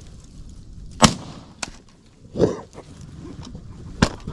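Two shotgun blasts about three seconds apart during a turkey hunt, the first one louder. They are shots fired at turkeys at close range.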